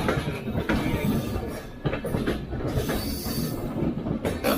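A train running past, its wheels rumbling on the track, with a few sharp clacks as they cross rail joints.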